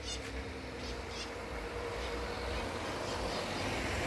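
Street traffic: the hiss of a car swelling as it approaches, with a few short bird chirps near the start.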